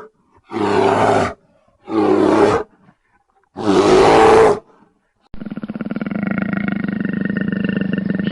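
A large animal roaring three times, each roar about a second long with short gaps between. About five seconds in, a long, steady, rasping call starts abruptly and runs on.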